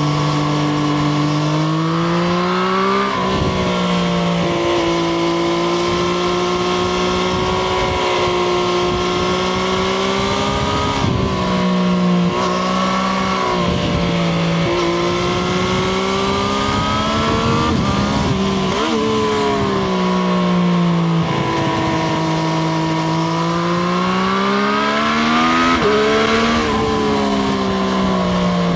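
Triumph Street Triple RS three-cylinder engine under way, its pitch repeatedly rising and falling as it is ridden through the gears, with several sudden changes in pitch, over steady wind noise.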